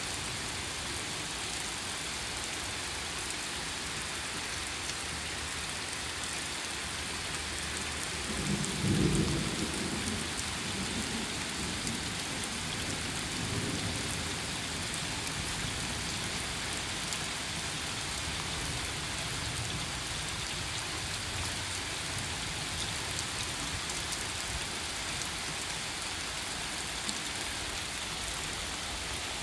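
Thunderstorm: steady rain falling on the pavement and street. A rumble of thunder comes about nine seconds in, with a weaker rumble a few seconds after.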